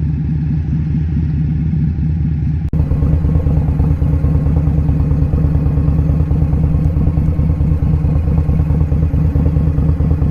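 Indian Scout Sixty motorcycle's V-twin engine running steadily under way. About a third of the way in it dips for an instant and comes back louder.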